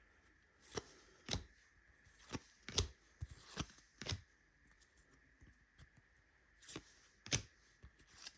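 Glossy trading cards being flipped through by hand, a short sharp snap each time a card is slid off the stack, irregularly about one or two a second with a gap of about two seconds midway.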